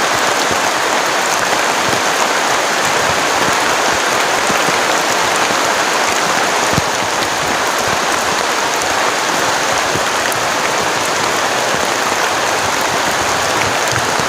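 Heavy rain falling steadily, a dense, even hiss with scattered drop ticks.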